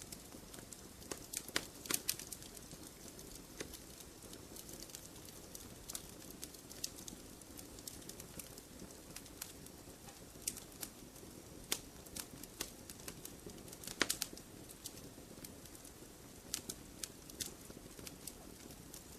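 Wood campfire crackling: irregular sharp pops and snaps over a soft, steady hiss of burning, with a few louder pops about two seconds in and again about fourteen seconds in.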